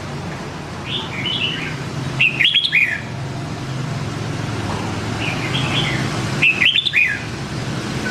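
Red-whiskered bulbul singing: four short warbling phrases in two pairs, a fainter phrase followed by a louder one each time, over a steady low hum.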